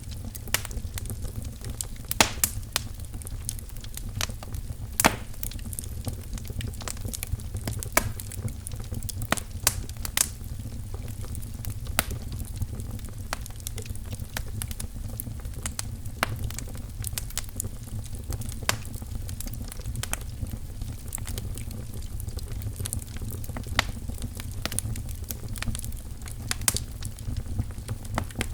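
Wood fire in a fireplace crackling, with irregular sharp pops of varying strength over a low steady rumble.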